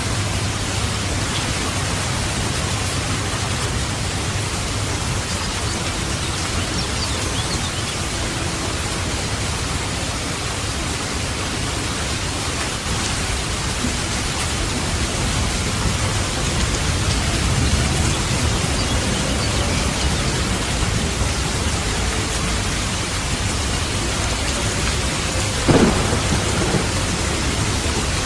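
Steady rain with low rumbling thunder that swells and eases. Near the end a single brief, sharp, falling sound stands out above the rain.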